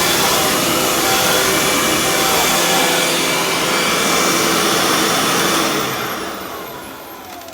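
Dirt Devil Ultra Vision Turbo upright vacuum cleaner running loudly, then switched off about six seconds in, its motor winding down with a falling whine.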